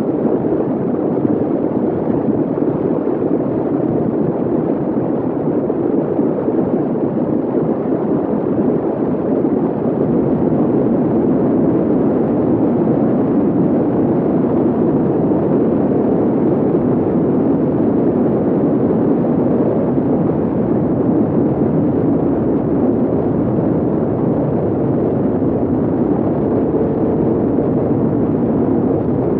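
Kawasaki Z800's inline-four engine through a full-system AR exhaust, running steadily while the bike is ridden, a loud even drone with no clear revving or gear changes.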